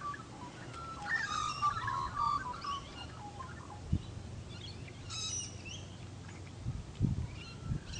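Wild birds calling: a run of short chirping notes about a second in lasting a couple of seconds, then higher, quicker chirps around five seconds, over a low steady rumble with a single soft knock near the middle.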